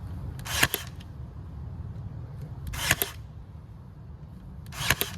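Battery-powered staple gun firing three times, about two seconds apart, each a short sharp snap driving a staple through screen into the log.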